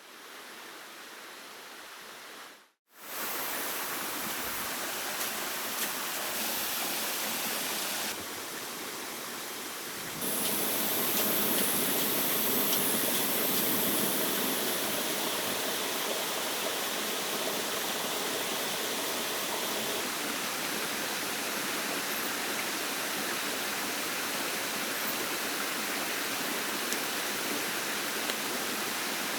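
Steady rush of a stream's running water, even and unbroken, with a brief dropout about three seconds in and abrupt jumps in level a few times.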